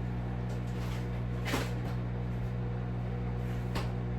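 Microwave oven running with a steady hum, and two light knocks of things being put away, about a second and a half in and near the end.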